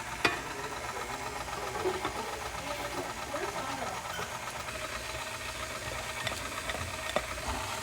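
Electric kitchen mixer running steadily while mixing cake batter, with a sharp knock about a third of a second in and a lighter one near the end.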